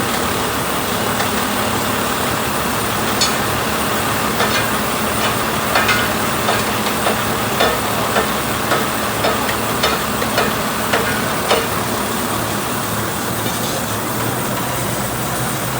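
A vehicle running with a steady noise, and a run of sharp clicks or knocks about twice a second through the middle.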